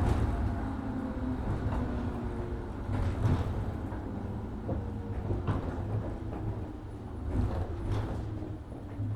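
Inside a 103 series 1500-subseries electric train slowing for a station stop: running noise with a low steady hum and faint pitched whines, broken by a few knocks.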